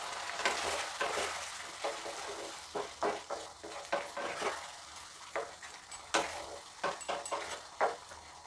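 Chicken curry sizzling in oil and a little water in a non-stick pan, with a spatula scraping and knocking against the pan in short, irregular strokes. The sizzle slowly fades.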